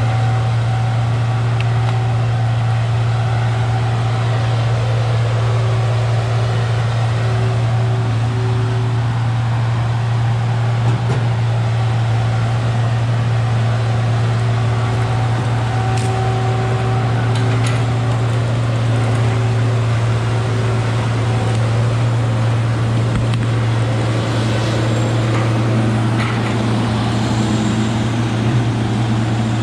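An engine running at a steady speed, a constant low drone with no revving.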